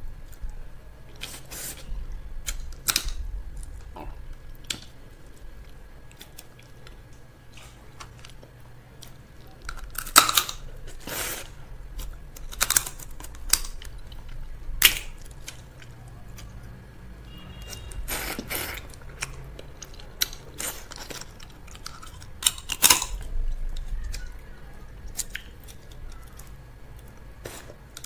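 Close-miked eating: chewing and biting, with sharp crunches and clicks every second or so, the loudest ones through the middle.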